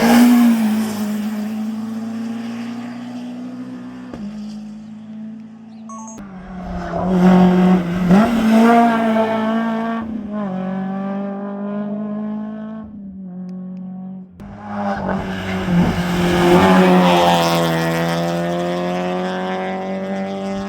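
Rally cars passing at full speed one after another, each engine revving hard and climbing in pitch through its upshifts. The passes are loudest at the start, a third of the way in and again near the end, under a steady low hum.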